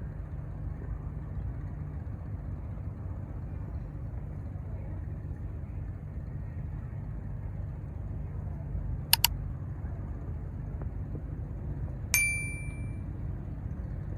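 Steady low rumble of a passing cargo ship's engine. About nine seconds in there are two sharp clicks close together, and about twelve seconds in a single metallic clang rings for about a second.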